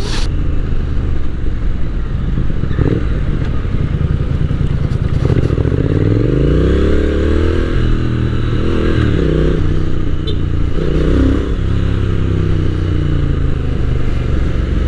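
Motorcycle engine under way, accelerating with its pitch climbing and then dropping and rising again several times as it shifts through the gears and eases off, over steady road and wind noise.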